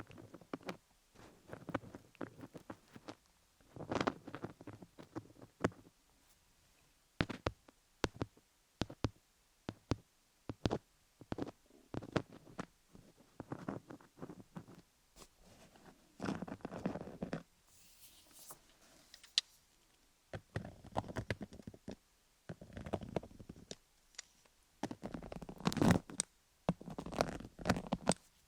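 Fingertips and nails scratching and rubbing over a rhinestone-studded binaural dummy-head microphone, heard very close, in irregular short strokes and longer rubs. About two-thirds of the way in, this changes to a microneedle (MTS) roller rolling over the studded surface.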